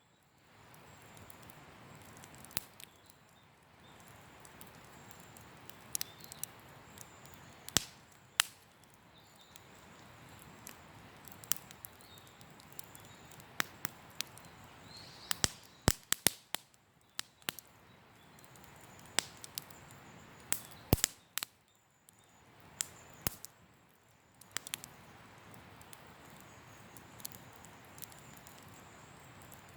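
Wood campfire crackling, with irregular sharp pops and snaps over a soft steady hiss.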